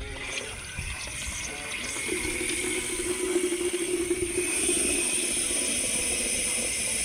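Pressure washer spraying water: a steady hiss that builds up about two seconds in, with a steady hum underneath from about two to four and a half seconds.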